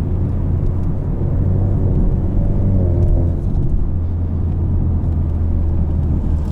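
2020 Ford Mustang EcoBoost's 2.3-litre turbocharged four-cylinder running steadily, with its active valved performance exhaust set to Sport mode, giving a loud, steady low drone.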